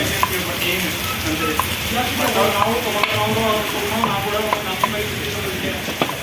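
Heavy rain hissing steadily, with faint voices in the background.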